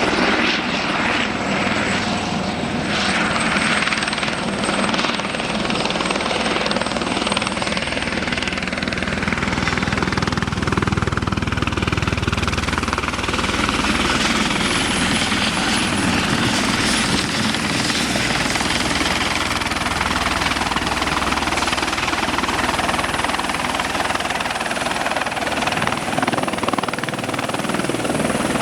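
Airbus helicopter landing, its turbine engine and rotor running steadily with a thin high whine over the rotor noise.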